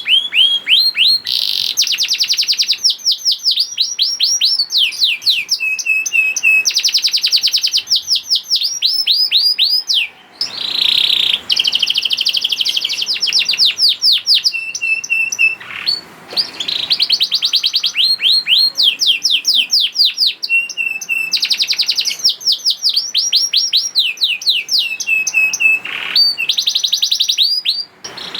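Domestic canary singing a long, loud song of fast trills: rapid runs of quickly repeated sweeping notes, with brief breaks about ten and sixteen seconds in.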